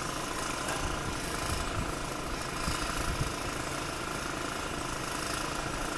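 Front bucket loader's diesel engine running steadily, with a rough, rattling low end.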